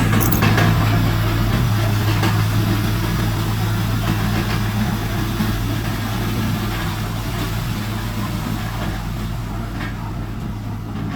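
Heavy diesel engine running steadily, with a few short metallic knocks.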